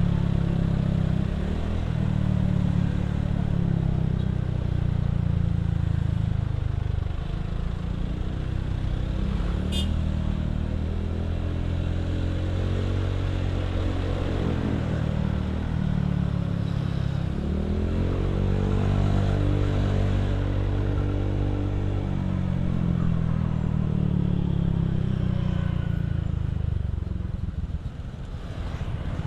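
Motorcycle engine running under way, its note falling and rising as the revs change.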